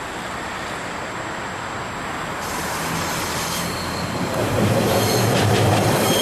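A passenger train passing close on the rails: wheels rattling over the track, with short wheel squeals and a low rumble. It gets louder in a step about four seconds in as the train draws alongside.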